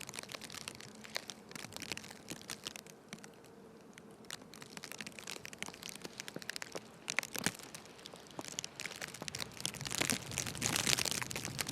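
Snow crunching and crackling underfoot while walking, a dense run of irregular crackles that thins out briefly and grows loudest near the end.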